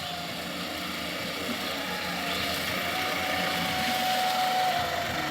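Dump truck's diesel engine running steadily at low revs.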